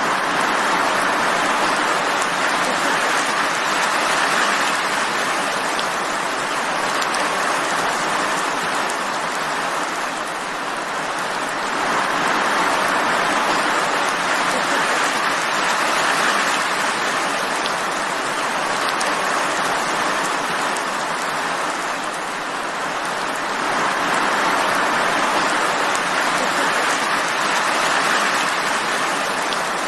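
Steady heavy rain falling, a dense even hiss that swells and eases every ten seconds or so.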